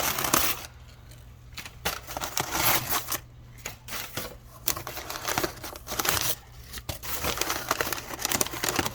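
Packing material being unwrapped and pulled out of a shipping box: irregular crinkling, tearing and rustling of paper or plastic wrapping, in bursts with short pauses.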